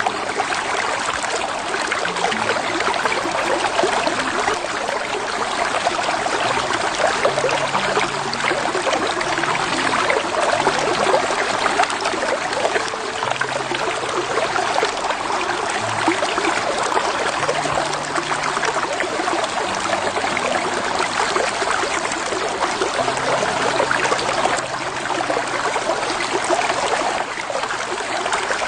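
Shallow creek flowing over a bed of rocks and gravel: a steady, even babbling rush of water.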